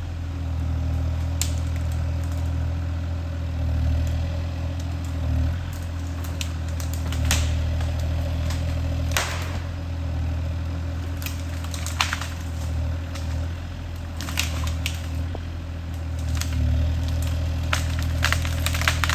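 Kubota KX040 mini excavator's diesel engine running steadily while wood cracks, snaps and crunches again and again as branches and logs are broken up or crushed.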